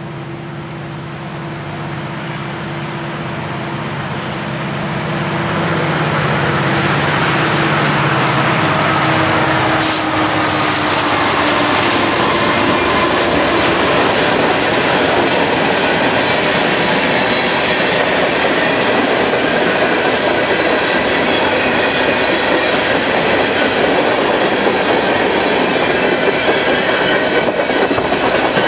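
Norfolk Southern freight train passing: the two diesel locomotives' engines drone low, growing louder over the first several seconds as they approach and go by. Then the long string of freight cars rolls past with steady wheel-on-rail noise and thin, high wheel squeals.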